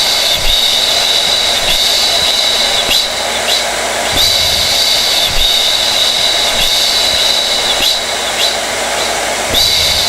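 Hair dryer running steadily: a continuous rush of air with a high motor whine that wavers every second or two.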